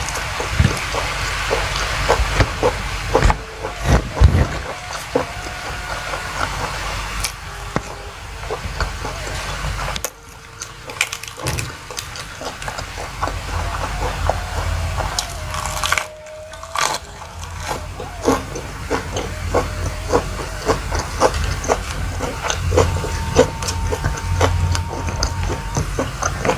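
Close-miked eating by hand: chewing and crunching mouthfuls of rice with lettuce and leafy greens, full of small wet clicks, smacks and crunches.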